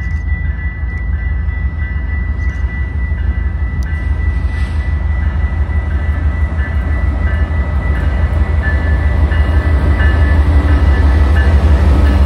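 Diesel-electric freight locomotives approaching and rolling past close by: a deep engine rumble that grows steadily louder, with a steady high whine on top.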